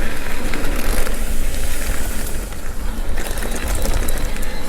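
Mountain bike rolling along a dirt trail: steady tyre noise and wind rumble on the bike-mounted microphone, with clicks and rattles from the bike, thicker in the last second and a half.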